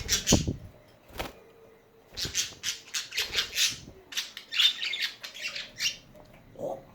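Pet budgies: a loud flutter right at the start, then from about two seconds in a quick run of short, harsh, scratchy budgie calls that stops near six seconds.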